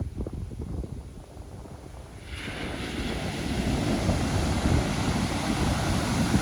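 Pacific Ocean surf: a wave breaks a little over two seconds in, and the hiss of its wash runs on. Wind buffets the microphone throughout with a low rumble.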